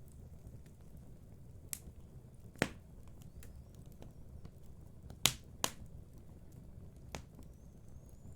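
Wood fire in a fireplace crackling: about five sharp pops from the burning logs, the loudest about two and a half and five seconds in, over a low steady rumble.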